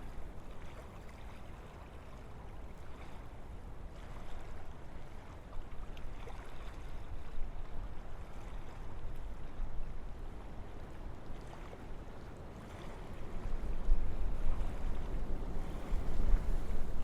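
Wind blowing through forest trees: a steady rushing with a deep low rumble, swelling into stronger gusts over the last few seconds.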